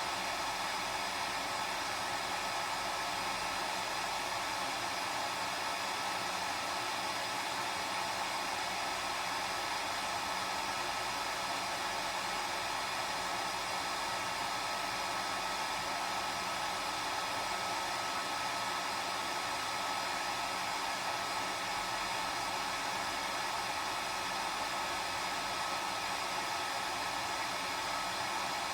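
Hair dryer running steadily: an even rushing of air with a fixed high whine from the motor.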